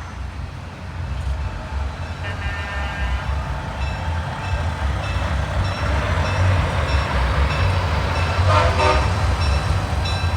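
A convoy of big trucks rolling past, their engines rumbling low and growing louder. Truck horns blow a chord about two seconds in and again near the end.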